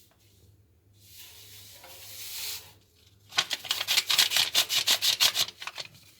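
Granular descaler powder poured from its pack into a washing machine drum: a rising hiss of pouring grains, then rapid rattling strokes, about six a second, as the pack is shaken out.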